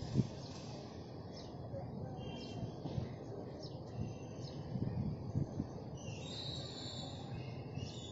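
Faint birds chirping over a low, steady outdoor rumble, with occasional soft bumps; the chirping is clearest near the end.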